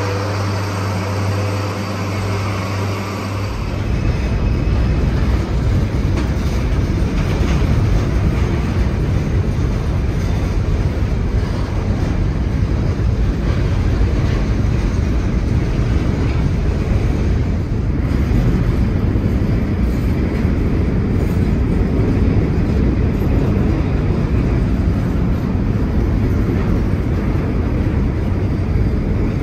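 A steady low engine hum, then from about four seconds in a loud, continuous low rumble of a train passing.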